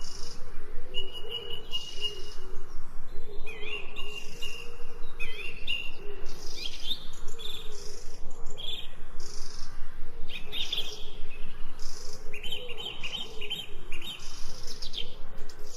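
Birds chirping and singing: short high chirps and trills, repeated every second or so.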